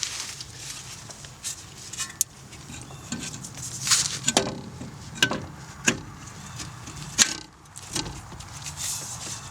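Hand tools and metal suspension parts being handled during CV axle work: a run of separate metallic clicks and clinks, a handful of sharper knocks among them.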